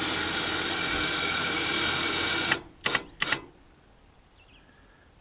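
Sawmill's powered head-lift motor running steadily to move the blade to a set height, stopping abruptly about two and a half seconds in, followed by two quick clicks.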